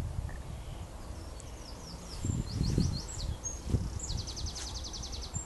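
Small bird calling: a few quick high chirps, then a fast, even trill of about ten notes a second near the end.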